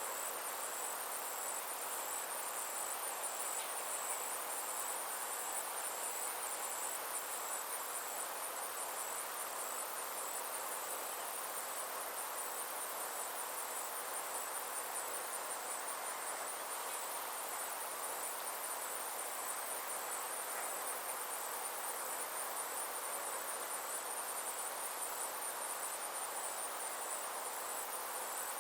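Insects trilling without a break, a high-pitched rapid pulsing chorus, over a soft steady hiss.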